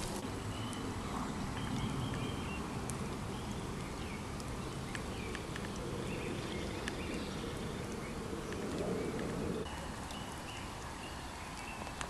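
Birds chirping with short calls over a steady low background noise. The low noise drops away suddenly about three quarters of the way through.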